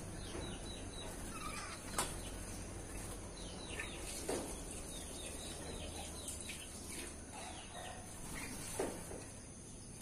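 Birds chirping in quick runs of short falling notes, with a few sharp taps about two, four and nine seconds in.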